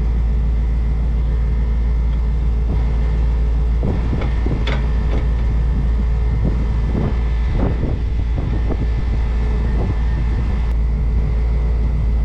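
Grain truck engine idling steadily. A series of light clicks and knocks in the middle comes from the weights being slid along a beam scale's arm to weigh the loaded truck.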